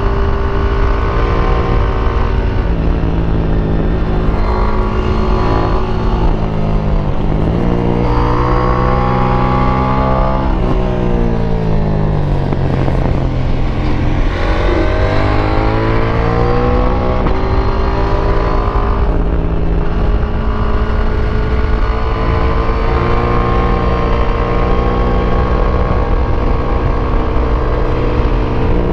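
KTM 890 Duke R's parallel-twin engine running through its stock exhaust while being ridden through bends. The revs rise and fall repeatedly: they climb about a third of the way in, then fall away in a long drop as the bike slows, then pick up again and hold fairly steady.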